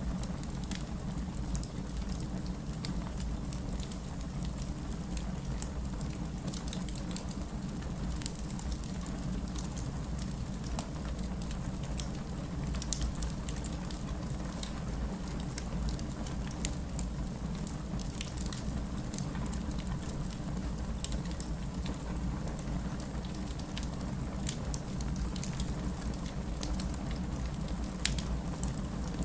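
Wood fire burning steadily with a low rumble of flame, with irregular crackles and occasional louder pops from the burning logs.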